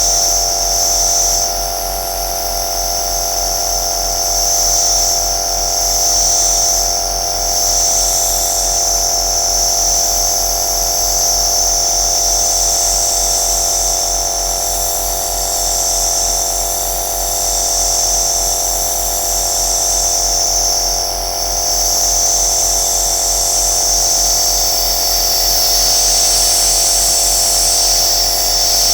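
Compressor nebulizer running steadily: a motor hum with a strong hiss of air and mist that swells and eases slightly every second or two.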